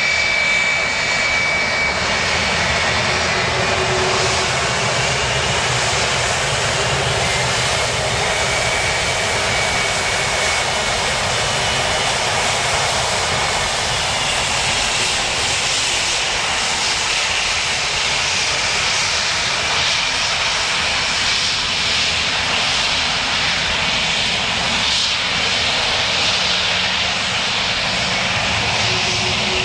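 Airliner engines running, a loud steady roar with a faint high whine that fades out early.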